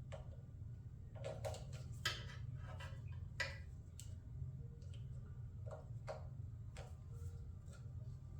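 Scattered faint clicks and light taps, irregular, over a low steady hum.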